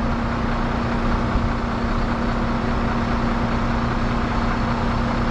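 Heavy recovery truck's diesel engine running steadily with a constant hum, powering the hydraulic winches and boom during a lift.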